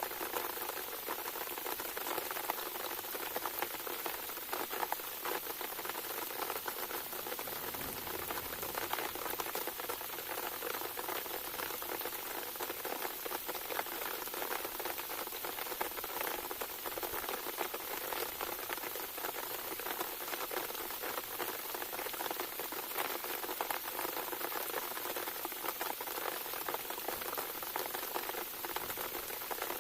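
Steady heavy rain, a dense, even pattering of drops.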